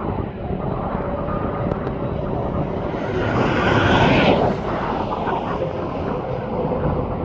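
Jet airliner's engines passing close by, the rumble and roar swelling to a peak about four seconds in and then easing off.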